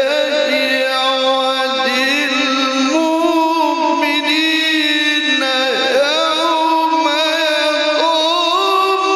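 Male Qur'an reciter holding a long melismatic vowel in tajwid-style recitation. The voice wavers in ornamented runs and steps up or down to new held notes a few times, without a pause for breath.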